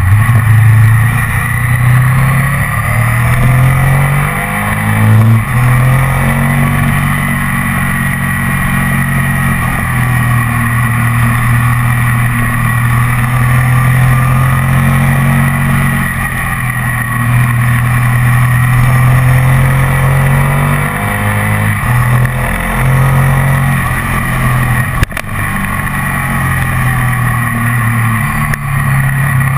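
Ducati ST4S's 90-degree L-twin engine running under way, heard from on the bike. Its note steps up and down several times in the first six seconds and again about 21 to 23 seconds in, and otherwise holds steady at cruise. There is one sharp click about 25 seconds in.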